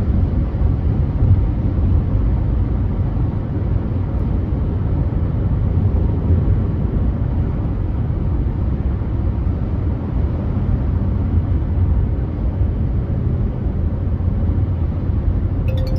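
Steady low rumble of a car driving at freeway speed: tyre, road and engine noise with no breaks. A short tone sounds near the end.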